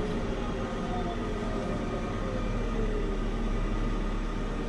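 A JCB 3CX Pro backhoe loader's diesel engine running steadily as the machine creeps along, with a faint whine that falls in pitch around the middle.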